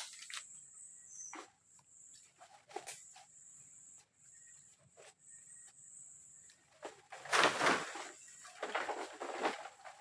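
Rustling and knocking from handling things, with a louder stretch of rustling about seven seconds in, over a steady high insect drone and a few short chirps.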